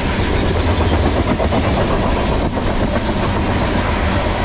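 Tank cars of a freight train rolling past: a steady noise of steel wheels on rails, with a few sharp clacks.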